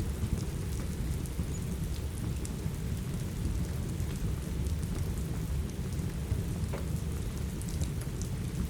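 Steady rain with a deep, even rumble underneath, and scattered small pops and crackles of a wood fire throughout.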